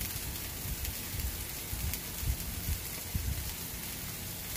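Tomato slices and egg sizzling steadily in a frying pan, a continuous hiss with faint crackles over an uneven low rumble.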